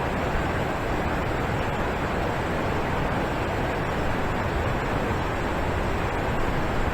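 Alpine waterfall crashing down steadily: a constant, even rush of falling water.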